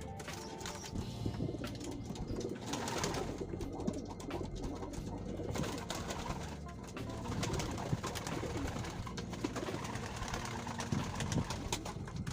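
Domestic pigeons cooing continuously.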